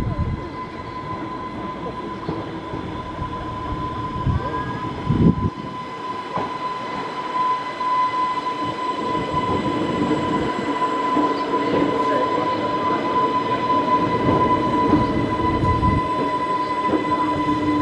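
Island Line Class 484 electric train pulling into the platform, growing louder as it draws alongside, with a steady high whine throughout and low rumbling knocks in the first few seconds.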